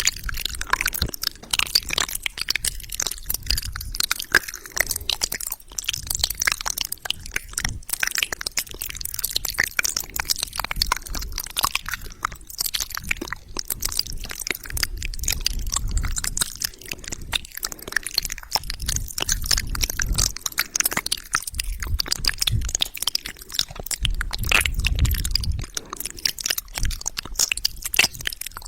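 Close-miked wet mouth sounds: a dense, unbroken run of tongue clicks and lip smacks, with a few low rumbles now and then.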